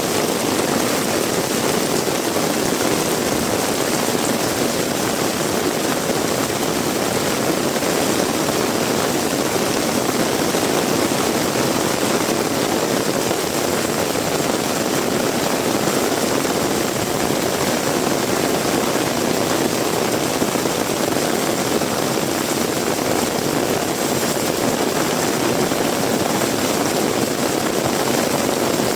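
Heavy rain falling in a steady, dense hiss that holds even throughout, with no single drops or gusts standing out.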